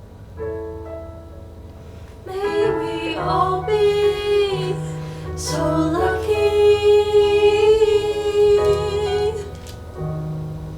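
Female voice singing a long held note with vibrato over piano accompaniment. Piano chords play alone at the start and again near the end.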